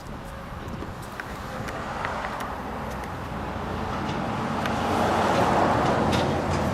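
Road traffic: a passing vehicle's noise swells to its loudest about five seconds in, then eases, with a few faint ticks.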